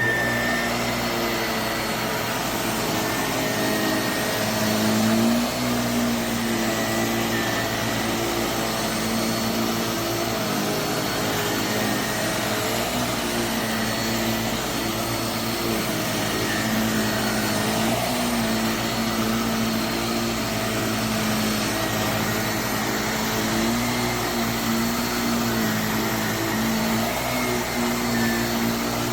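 Jimmy JV35 480 W corded handheld mattress vacuum running steadily, its motor pitch wavering slightly up and down.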